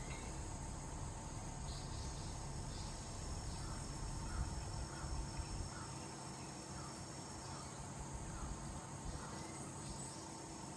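Insects, likely crickets, trilling steadily in outdoor night-time ambience, over a faint low rumble.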